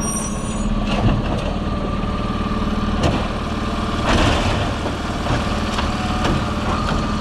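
Diesel engine of an Autocar recycling truck with a Labrie Automizer side-loader body idling steadily, with a held whine above the engine hum. A few short knocks come through about a second in, about three seconds in, and just after four seconds.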